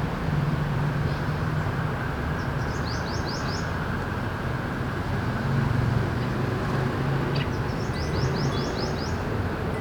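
Steady city traffic hum with a low engine drone underneath. Twice a bird gives a quick run of about six high chirps, a few seconds in and again near the end.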